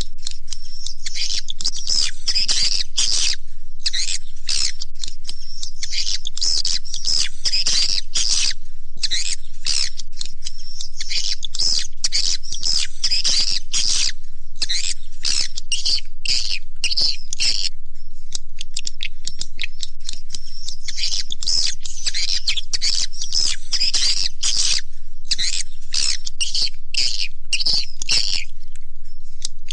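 Recorded swiftlet lure call: dense, rapid high-pitched chirping and twittering of edible-nest swiftlets, played as a continuous loop to attract birds to a swiftlet house.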